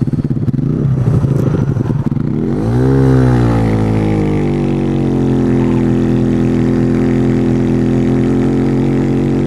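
Small 125cc single-cylinder motorcycle engine running under way. About three seconds in the revs rise sharply and drop back, then hold steady as the bike cruises.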